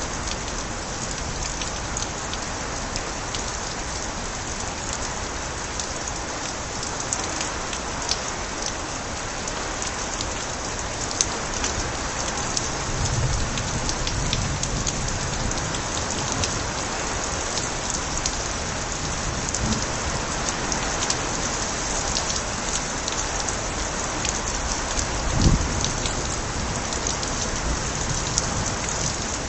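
Steady rain with water pouring from overflowing gutters and sharp drips ticking close by. A low swell comes about halfway through and a short low thud near the end.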